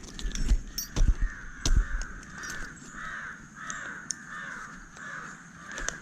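A crow cawing over and over, about two harsh calls a second. A few loud dull thumps come in the first two seconds.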